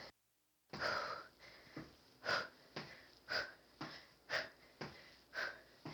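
A woman's sharp exhales, five about a second apart, in time with repeated kicks. The sound cuts out completely for about half a second at the start.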